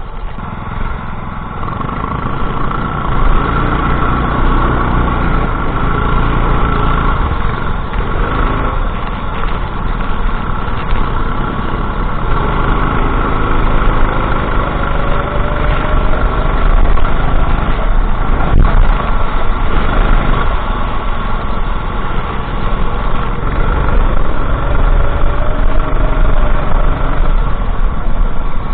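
Go-kart engine running continuously through a race lap. Its pitch rises and falls as it accelerates out of corners and eases off, with two clear rising runs about midway and near the end.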